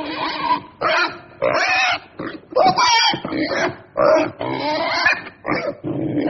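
Pig grunting and squealing in a quick run of about ten short calls, some rough and some with a rising and falling pitch.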